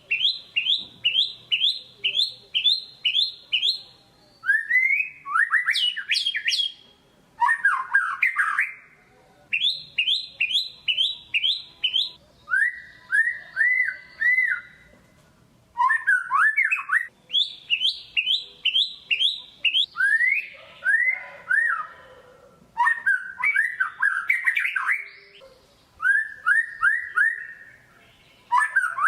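White-rumped shama singing energetically: phrases of five to eight rapid, repeated whistled notes, one after another with short pauses between them.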